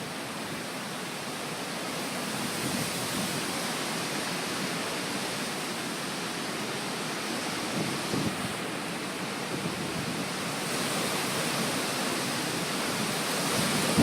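Steady rush of a thunderstorm's heavy rain and wind, an even hiss with no distinct events, growing slightly louder toward the end.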